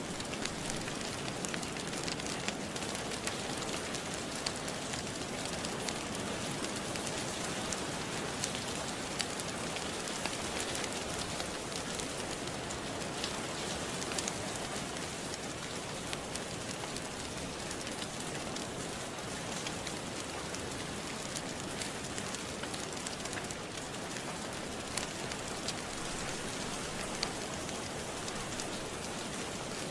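Steady rain mixed with the scattered sharp crackles of a wood fire.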